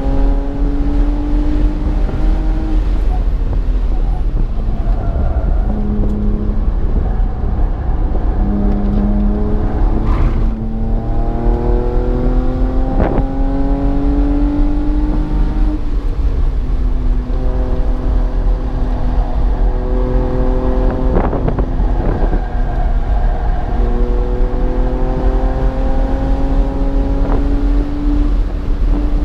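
BMW's engine heard on board under hard acceleration on a track lap, revs climbing through the gears and dropping back at each shift, over a steady low rumble. A few sharp knocks come in between.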